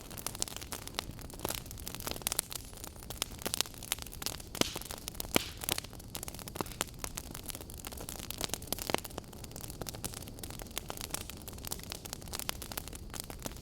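Wood fire burning, with logs crackling in dense, irregular snaps and pops over a low, steady rush of flame.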